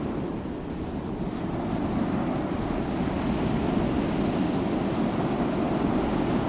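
Sea waves washing on the shore in a steady wash of surf, easing a little about a second in and building again.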